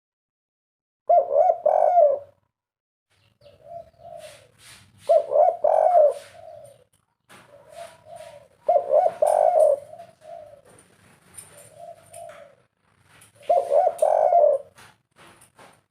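Spotted dove (tekukur) cooing: four loud cooing phrases about four seconds apart, with softer coos in between and faint sharp clicks.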